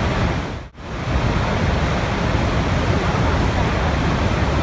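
Steady rushing water, an even wash of noise, which fades out and back in sharply once, under a second in.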